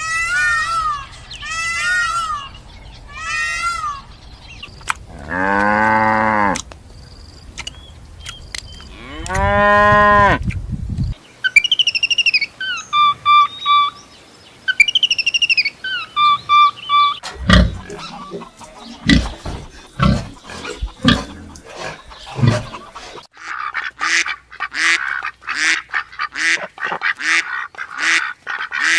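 A string of different farm animal calls, one after another. First come short repeated bleats, then two long drawn-out calls, then a series of higher honking calls, and finally a run of sharp knocks mixed with rhythmic calls.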